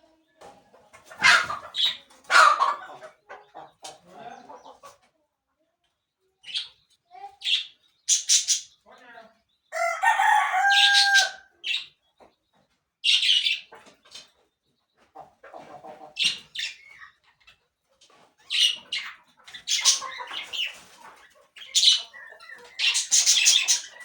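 Birds calling in many short, irregular bursts of shrill chirps and squawks, with one longer held call about ten seconds in.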